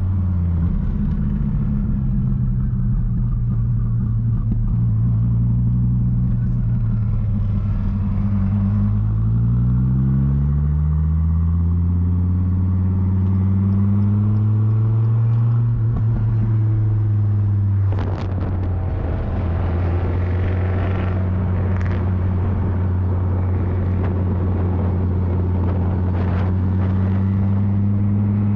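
Twin-turbo Dodge Viper's V10 engine running while driving: its note rises as the car speeds up about a third of the way in, then holds at a steady cruise. A sharp click comes about two-thirds of the way through.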